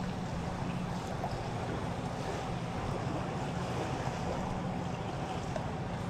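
Small boat's outboard motor running steadily with a low hum, under wind and water noise.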